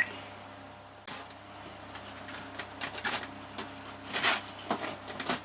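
Handling noise from working on an RC model jet: scattered clicks and rustles at uneven intervals, the loudest a little after four seconds in.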